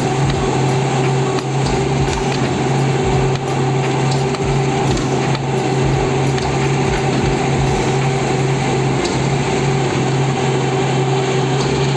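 Truck engine running steadily at a constant pitch, as on a concrete pour with a pump truck and mixer trucks.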